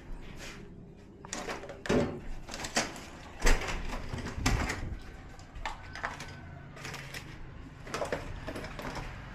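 Hands working on a flat-screen TV during disassembly: a scattered series of clicks, knocks and light scrapes of its plastic and metal parts being handled.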